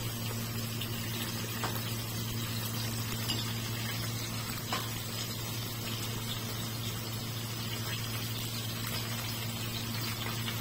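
Chicken patties sizzling steadily as they shallow-fry in oil in a nonstick pan, over a steady low hum, with a few faint taps.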